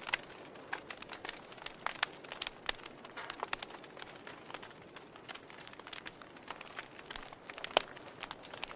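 Campfire crackling: irregular sharp pops and snaps over a soft hiss, with one louder pop near the end.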